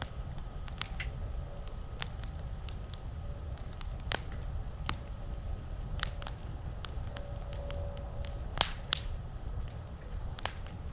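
Wood campfire crackling, with irregular sharp pops and snaps over a low steady rumble. Two louder pops come close together about two-thirds of the way through.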